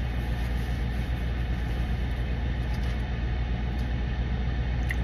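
Steady low hum of a vehicle's engine idling, heard from inside the cabin.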